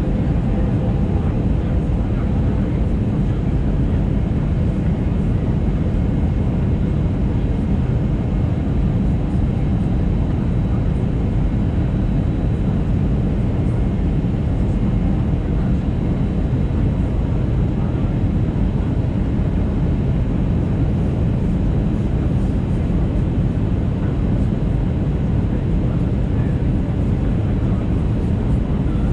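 Steady roar inside the cabin of an Airbus A320neo airliner with CFM LEAP-1A engines during descent: airflow noise and engine hum, heaviest in the low end and unchanging throughout.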